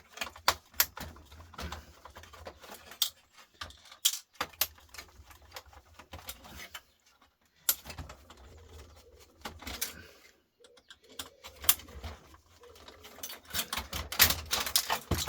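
Hand tools clicking and scraping against a circuit board and its small metal parts as it is stripped for scrap. The sharp, irregular clicks and ticks crowd together near the end.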